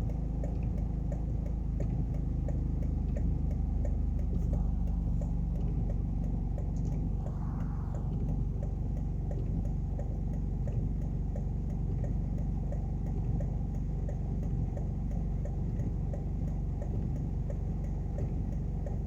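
Steady low rumble of an idling vehicle heard from inside its cabin, with a fast, regular ticking running over it. A brief swell of noise rises and fades about seven to eight seconds in.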